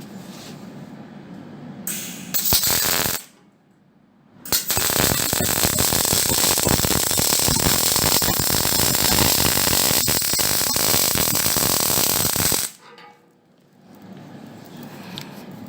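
MIG welder laying a weld: a short burst about half a second long, then after a pause a steady crackling run of about eight seconds that stops abruptly.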